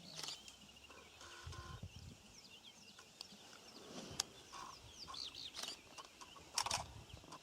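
Birds chirping and calling in the bush, with many short high chirps and a few lower clucking calls, and two sharp cracks, about four seconds in and louder near the end.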